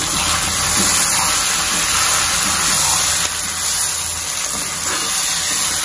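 Chopped onions and tomatoes sizzling in hot oil in a large kadai while being stirred with a metal spatula: a steady frying hiss with a low hum underneath, the tomatoes sautéing down with the onions.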